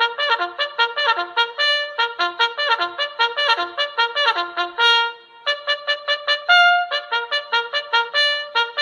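A trumpet playing a fast melody of short, quick notes, with a brief break about five seconds in.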